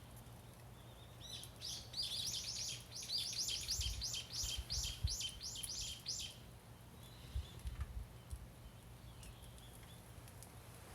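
A bird singing a rapid run of repeated high notes, about five a second, lasting some five seconds from about a second in.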